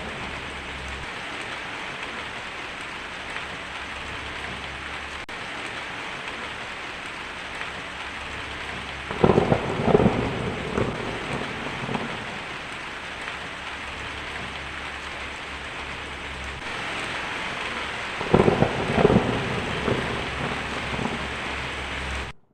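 Steady rain falling, with two peals of thunder, about nine seconds in and again near the end, each rolling on for two or three seconds.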